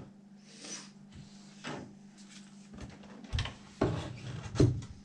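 Scattered knocks and rubbing of hands working a stuck tire and rim off a 1/5-scale RC car wheel, about four sharp knocks in all, over a steady low hum.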